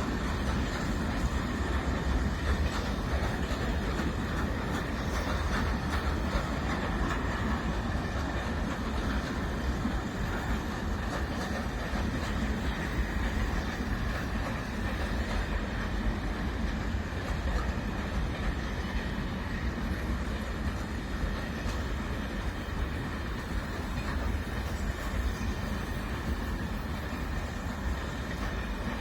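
A train's wagons rolling past on the rails, a steady rumble.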